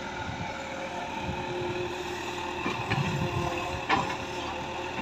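Diesel engine of a JCB backhoe loader running steadily at an even pitch, with a sharp knock about four seconds in.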